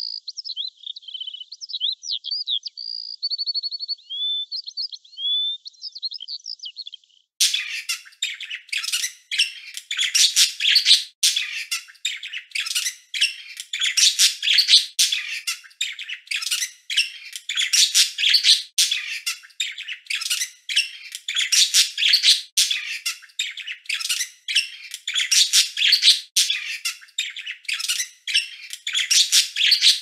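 Songbirds chirping. For about the first seven seconds a thin, high song of varied chirps, short trills and whistles; then a louder, busier stream of sharp chirps, several a second.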